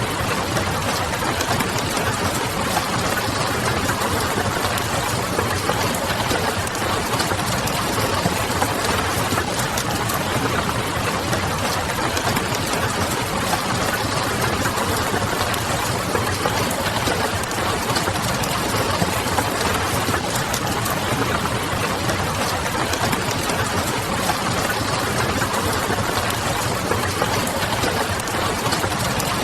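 Steady rain with the light crackle of a wood fire, over a low hum.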